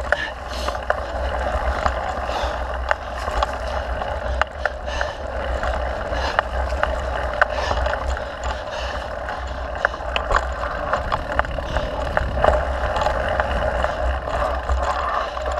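Wind rushing over the microphone of a mountain bike in motion, with steady tyre noise on the trail and frequent small clicks and rattles from the bike.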